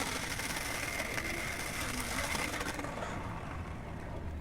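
City street ambience: a steady wash of traffic and urban noise, with a thin high steady tone over it for the first two to three seconds. The brighter hiss falls away about three seconds in.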